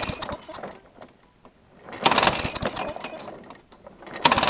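Push mower's small engine pulled over three times on its recoil starter, each pull a short rush of cranking and clatter that dies away without the engine catching: the engine is dying after swallowing dirt through its carburetor.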